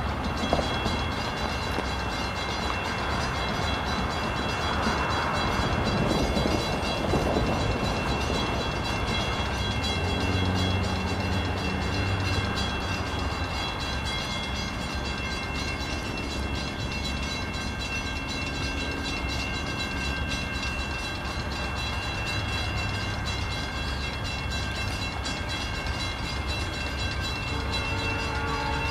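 Diesel-hauled freight grain train approaching: a low locomotive engine rumble that swells about a third of the way in, under a steady high ringing from a grade-crossing bell.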